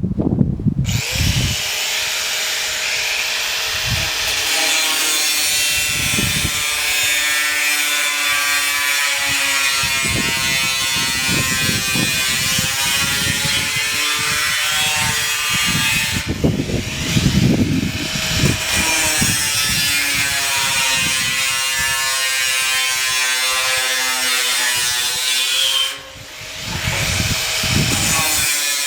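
Electric power tool cutting steel roofing sheet: a steady motor whine with a harsh metallic hiss. It starts about a second in, sags in pitch now and then under load, and briefly cuts out near the end.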